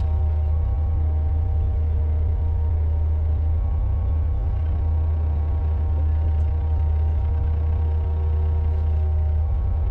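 Mini excavator's diesel engine running steadily at an even speed with a deep rumble.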